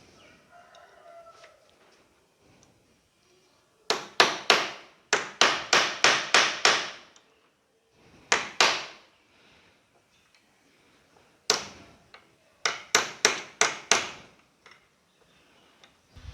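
Hammer blows on a handleless screwdriver used as a chisel to cut the spread rivet ends on a mixer motor's bushing plate: sharp metal-on-metal strikes with a short ring, a run of about eight, a single blow, then a run of about seven.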